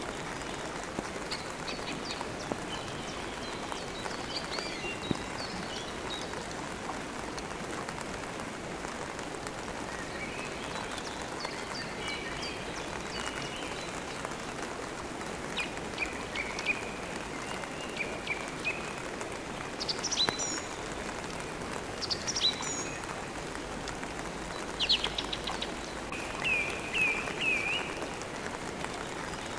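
Steady rain falling, with birds chirping now and then over it, including a quick run of several chirps near the end.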